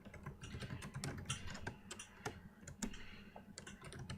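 Typing on a computer keyboard: a quick, uneven run of key clicks over a faint low electrical hum.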